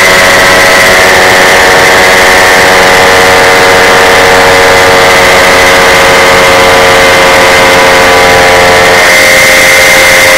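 Paramotor engine running loud and steady, with a slight shift in pitch about nine seconds in.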